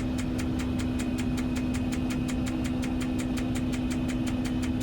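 Grove mobile crane's diesel engine running steadily, a constant hum with a fast, even ticking of about eight ticks a second.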